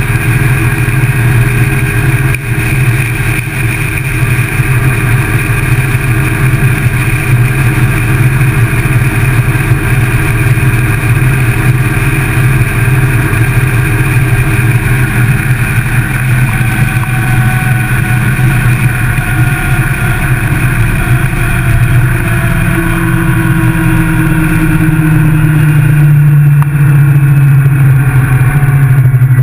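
Motorcycle engine running steadily at road speed, heard from a camera mounted on the bike. Over the last several seconds its pitch climbs and it grows louder as the bike accelerates.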